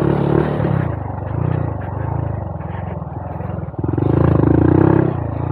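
Honda Monkey 125's single-cylinder four-stroke engine running under way, the revs swelling twice as the throttle is opened: briefly at the start and again for about a second near the end.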